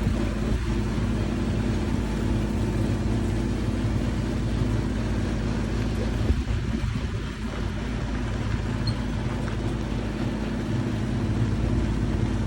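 A vehicle engine running steadily, a constant low hum with road or wind noise over it.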